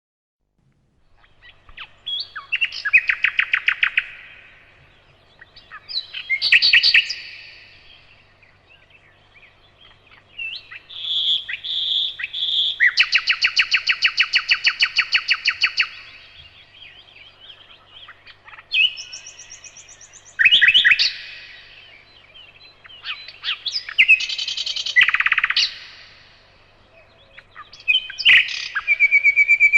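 Songbirds singing: a run of separate phrases of fast, even trills and sharp chirps, high-pitched, each lasting a second or a few, with short pauses between them.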